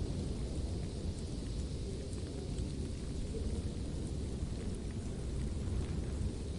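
Steady white-noise ambience made for sleep: an even low rumble with a fainter hiss above it and a few faint ticks, unchanging throughout.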